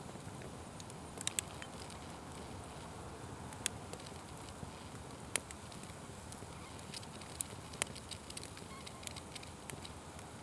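Open fire burning: a steady low rush with scattered sharp crackles and pops, a few of them louder than the rest.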